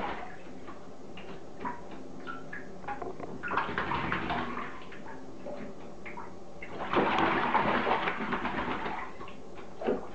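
A crow bathing, splashing in a shallow pan of water in two bursts, one about three and a half seconds in and a longer one about seven seconds in, with small drips and taps between them.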